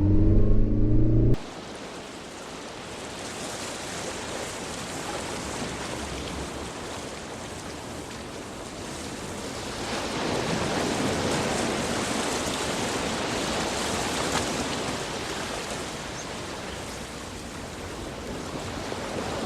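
Low car road rumble for about a second, then an abrupt cut to a steady rushing noise that swells a little about halfway through.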